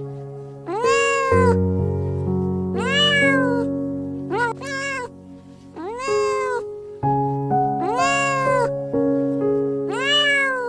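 An animal calling repeatedly, about every two seconds, each call rising then falling in pitch, with a quick pair of shorter calls near the middle. Background music with sustained chords plays underneath.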